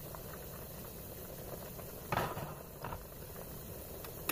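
Butter with onions, garlic and ginger sizzling steadily in a saucepan, with a clatter of cookware about two seconds in.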